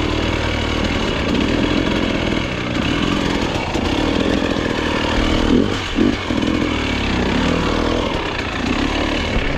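Two-stroke dirt bike engine running on and off the throttle, its revs rising and falling over and over, with two sharp throttle blips a little past halfway.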